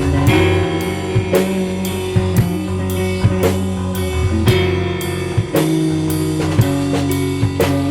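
A rock band playing a song in a rough, low-fidelity recording: a drum kit keeps a steady beat of about two hits a second under guitar and bass notes that change every second or so.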